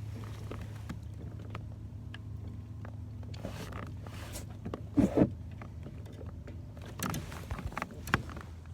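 A steady low engine hum throughout, with scattered clicks and knocks from handling the caught bass and gear in a kayak. The loudest knocks come about five seconds in, with more between seven and eight seconds.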